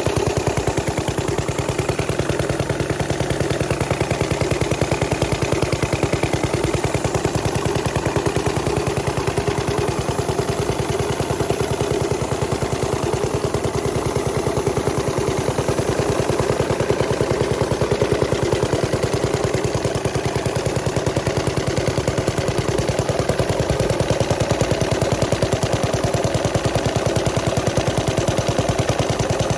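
Paige cream separator engine, a small single-cylinder gas engine, running steadily with a rapid, even train of exhaust pops.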